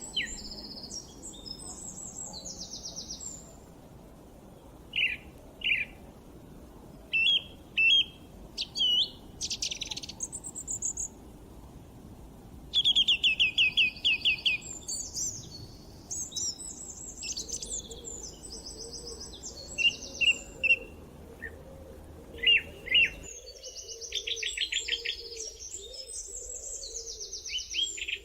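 Several songbirds singing and calling, with many short chirps, whistled phrases and rapid trills, the loudest trill about 13 seconds in. Beneath them a low steady hiss drops away abruptly about 23 seconds in.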